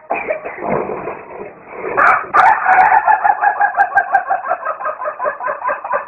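A chicken giving a fast run of clucks, about five or six a second, starting about two seconds in and going on without a break.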